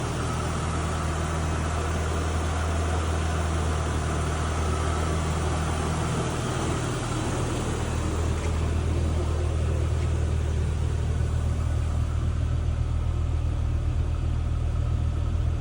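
1988 Toyota Hilux Surf engine idling steadily, still cold shortly after a cold start.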